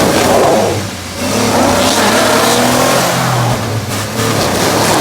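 Truck engine revving hard in long surges, easing off briefly about a second in and again near the end, as the truck strains against a tree it is hung up on.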